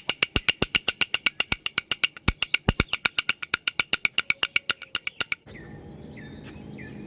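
Baby's toy rattle shaken in a fast, even rhythm, about seven shakes a second, with bright ringing clicks; the shaking stops abruptly about five seconds in, and a quieter sound of short chirps over a low hum follows.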